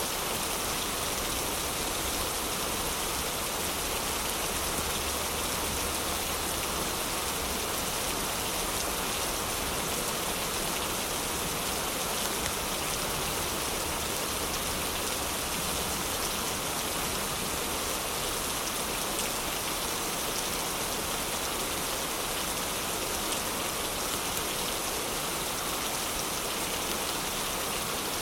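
Heavy rain falling, a steady, even hiss of dense raindrops that does not change.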